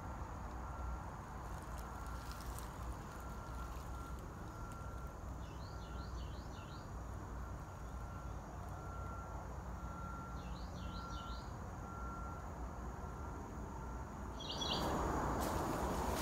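A bird gives three short bursts of rapid chirps, spaced several seconds apart, over a steady background hiss and a faint short note that repeats about once a second. Near the end, a louder rustling noise starts.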